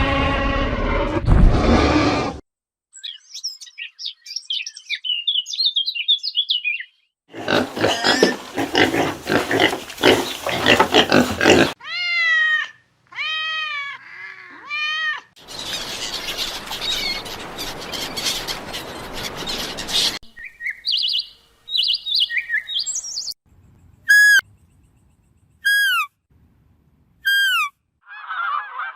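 A string of different animal calls, one clip after another. High bird chirps and repeated pitched calls alternate with harsh, noisy stretches, and it ends with several single falling whistled calls.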